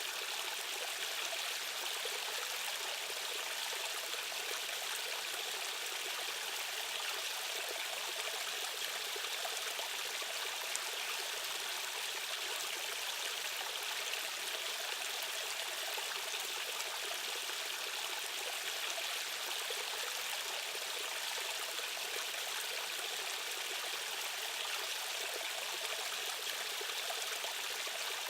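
Fast-flowing stream water rushing, a steady, even hiss with little low rumble.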